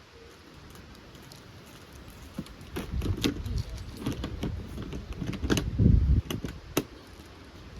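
A run of light metallic clinks and knocks, with a few duller low bumps, as things are handled and set down.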